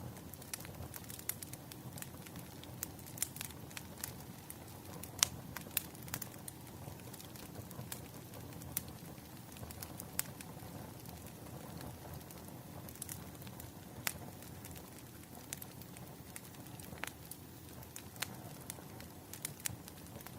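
Firewood fire crackling: irregular sharp pops and snaps over a steady low rumble of burning logs.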